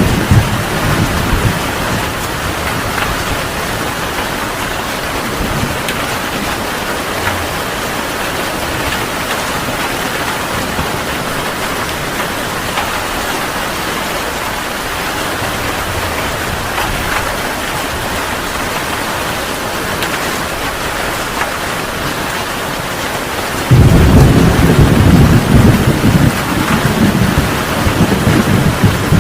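Heavy rain falling steadily in a thunderstorm. A loud, deep roll of thunder breaks in suddenly near the end.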